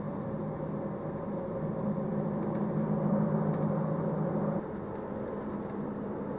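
Electric metre-gauge passenger train running, a steady rumble with a low hum over it. The hum cuts off about four and a half seconds in, leaving the rumble slightly quieter.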